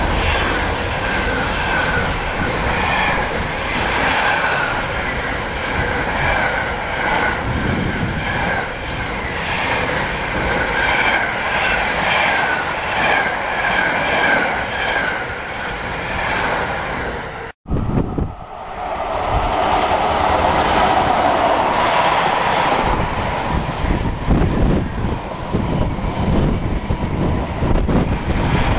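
Freight train wagons passing close by at speed, their wheels clattering over the rails in a steady repeating rhythm. After a sudden break about 18 seconds in, a second freight train carrying shipping containers passes, its wagons running by continuously.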